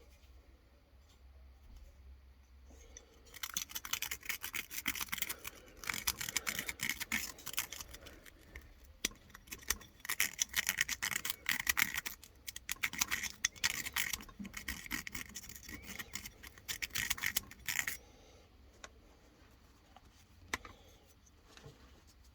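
Rapid scraping strokes on metal, in bursts of a second or two with short pauses, starting about three seconds in and stopping near eighteen seconds: rust being scrubbed off a part of the mower's fuel system.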